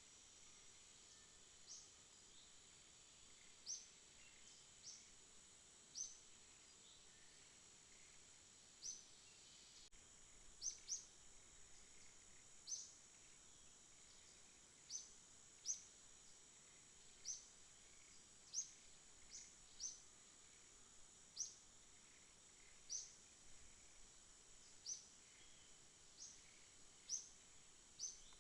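Night ambience: a steady high-pitched insect buzz, with short high chirps repeating irregularly every second or two.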